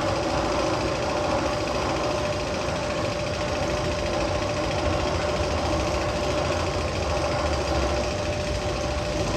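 Steady machine-like rumble with a fast rattle and a constant hum, played as a coaster tunnel sound effect over the ride's speakers.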